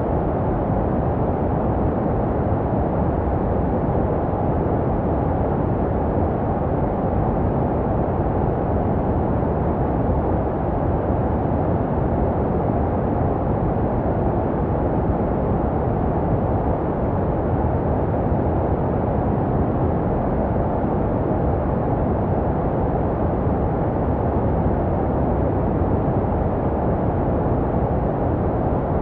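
Synthetic baby-sleep white noise: a steady, deep, muffled hiss with the treble cut away and no change in level, made to resemble the sounds a baby hears in the womb.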